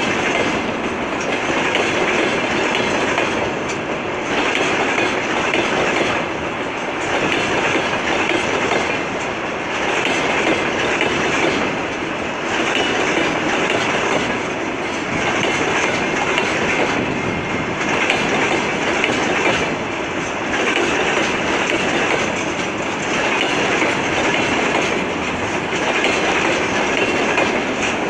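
A freight train of railway tank cars rolling past, its wheels clattering over the rail joints in a steady clickety-clack that swells and fades about every two and a half seconds as each car goes by.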